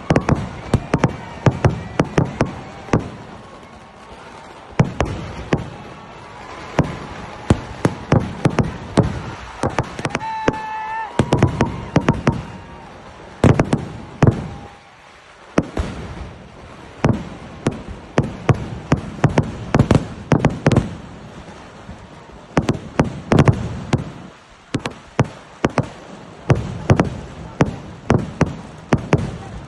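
Fireworks display: rapid volleys of firecracker bangs, many a second, with short lulls between the volleys. A brief whistle-like tone sounds about a third of the way in.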